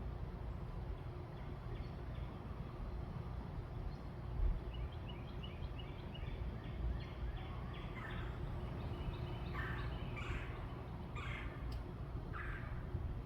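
Birds calling over a steady low rumble: a quick run of short repeated chirps from about five seconds in, then a few louder calls near the end.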